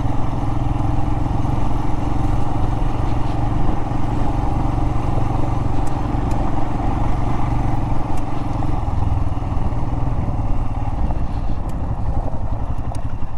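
Royal Enfield Himalayan's single-cylinder engine running steadily under a rider on a rough desert trail, with a few faint clicks from the ride.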